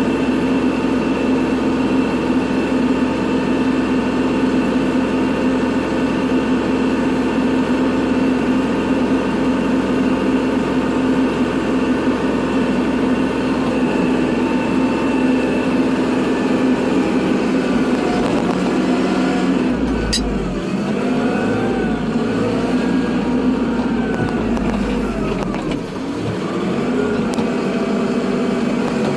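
Kubota tractor's diesel engine running steadily while plowing snow, then its pitch rises and falls several times about two-thirds of the way through, with a short dip near the end.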